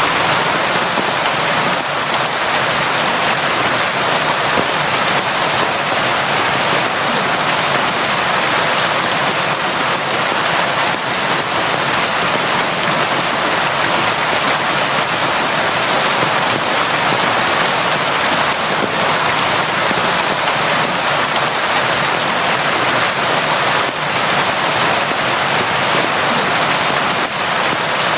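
Steady, heavy rain falling and pattering on surfaces, a dense even hiss with fine scattered drop ticks and no let-up.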